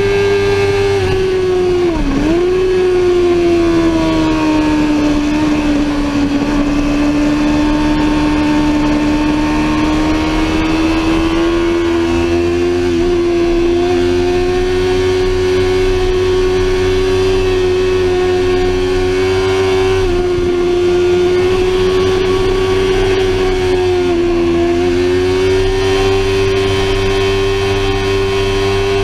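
Sportbike engine running hard at high revs, heard onboard. The revs drop sharply and pick up again about two seconds in, then hold with slow changes, and dip briefly once more near the end.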